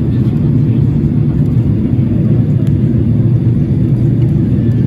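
Steady low rumble of a passenger airliner's engines and airflow heard from inside the cabin, loud and even throughout.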